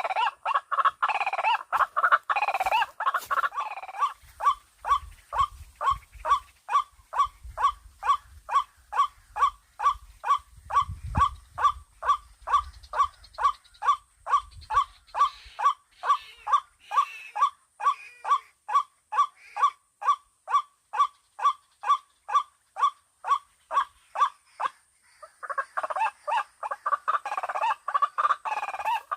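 White-breasted waterhen calls played through a hidden speaker as a lure. It opens with a dense, overlapping run of calls. For about twenty seconds after that a single sharp note repeats two to three times a second, and the dense calling returns near the end.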